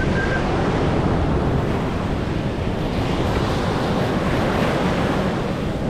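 Sea surf washing onto a beach, a continuous rushing wash that swells in the middle, with wind buffeting the microphone.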